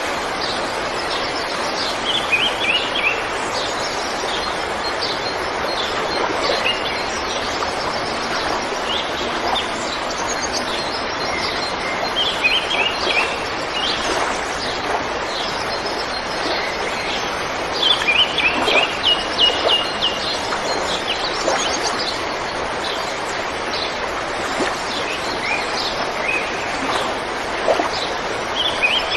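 A river flowing with a steady rush of water, with small birds chirping over it in several short runs of quick notes, the busiest run a little after halfway.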